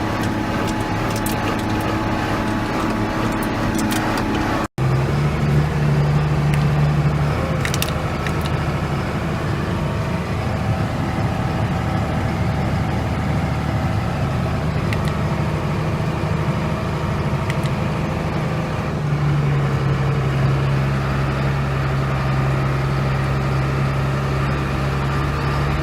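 Diesel engine of heavy harvest machinery running steadily under load. A brief break about five seconds in cuts to a different steady engine sound.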